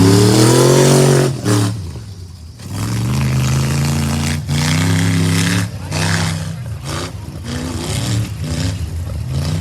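Truck engine under hard throttle: it revs up with rising pitch, drops off sharply after about a second, then surges again and again with brief lifts of the throttle roughly every second.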